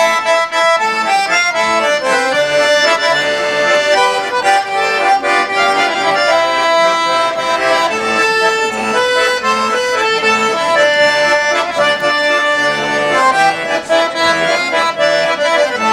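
Accordion playing a melody over held chords, an instrumental introduction before the singing of the song resumes.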